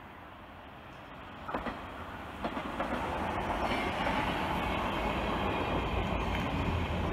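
NS ICM 'Koploper' electric intercity train passing close by over a steel railway bridge. The noise builds from about a second and a half in, with two sharp wheel clacks, to a steady loud running noise of wheels on rails.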